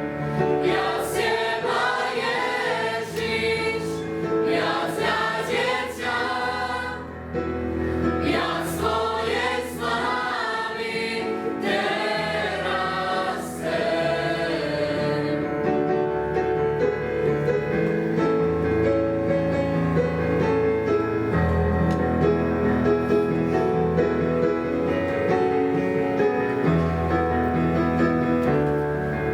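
A youth choir singing a Christian gospel song with instrumental accompaniment. About halfway through, the wavering sung lines give way to steadier held chords.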